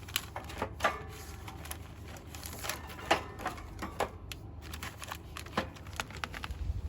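Hands quickly rustling and tapping cosmetic product packaging, making irregular crinkles and sharp clicks, with the loudest click about three seconds in. A steady low hum runs underneath.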